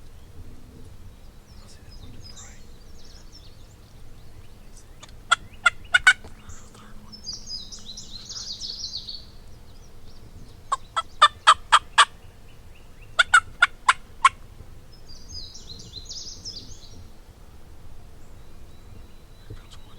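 Turkey yelping: three runs of four to six sharp, evenly spaced yelps, loud and close, with a songbird singing faintly twice in between over steady outdoor ambience.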